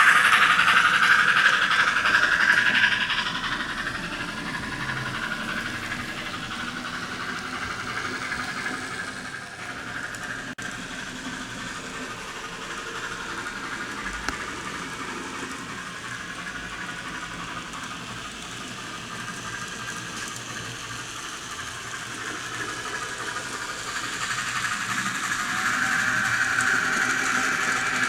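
N scale model train running on the layout's track. It is loudest at the start, drops away after about three seconds, and grows louder again near the end as it comes back by.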